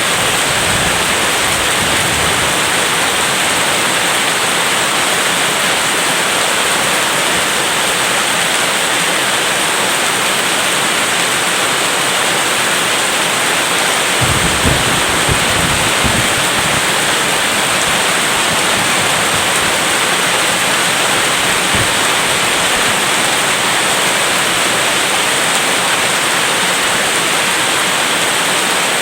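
Steady heavy rain, a dense even hiss with no let-up, with a few short low thumps about halfway through.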